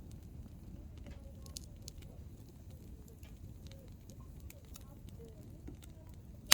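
Hardwood campfire crackling: scattered small, sharp snaps from the burning logs over a low steady rumble of the flames.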